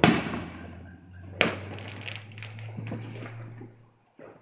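Fireworks going off: a loud bang from a burst, then a second sharp crack about a second and a half later and scattered crackling pops that fade out. A steady low hum runs underneath until near the end.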